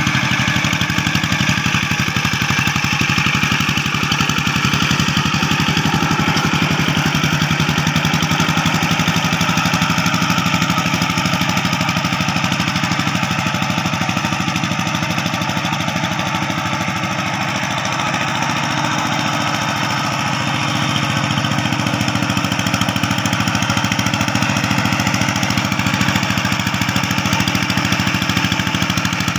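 Rice-field tractor's engine running steadily as the machine tills a rice field.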